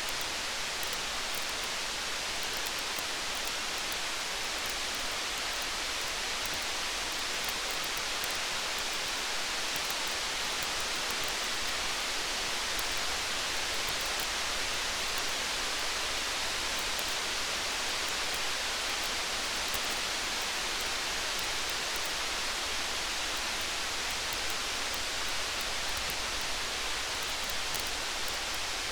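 Steady hiss of rain, with faint short ticks scattered through it.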